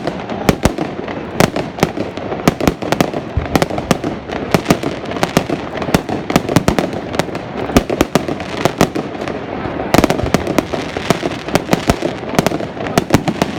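Fireworks going off in quick, irregular succession: many sharp bangs a second, loud, with no let-up.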